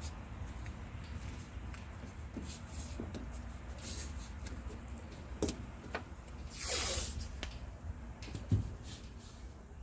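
Tape pulled off its roll in one short rip about two-thirds of the way in, amid light handling clicks and knocks, over a low steady hum.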